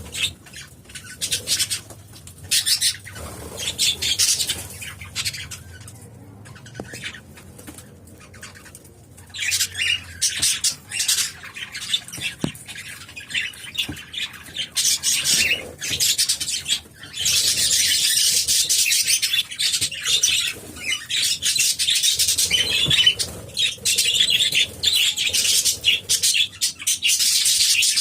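A flock of budgerigars and cockatiels chattering, chirping and squawking in rapid, overlapping calls. The chatter turns denser and louder a little past halfway through.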